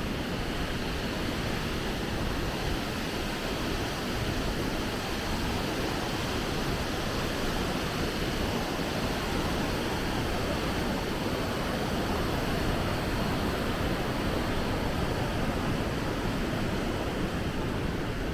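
Water pouring down a large waterfall, a steady unbroken rush of noise.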